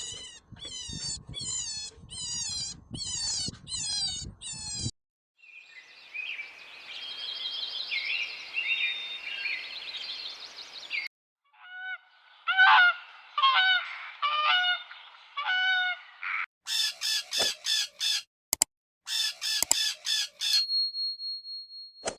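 Several different bird calls in quick succession. First a run of repeated falling calls, then high chattering over a hiss, then a string of loud calls and a burst of rapid short ones, ending in a steady high tone.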